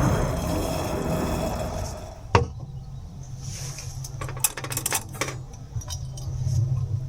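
Metal camp cookware and utensils clinking and knocking: one sharp knock about two seconds in, then a quick cluster of clinks near the middle and a few more later. A rushing noise fades away over the first two seconds.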